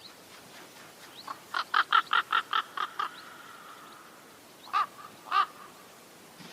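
A bird calling with harsh, crow-like caws: a quick run of about eight short notes at roughly five a second, then two single calls a few seconds later.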